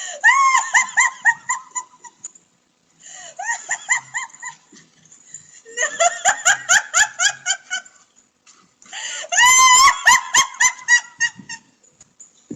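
An animal's rapid, repeated honking calls in four bouts of about two seconds each, some five or six calls a second, each call rising and falling in pitch.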